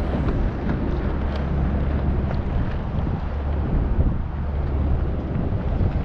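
Wind buffeting the microphone: a steady low rumble, with faint scattered ticks.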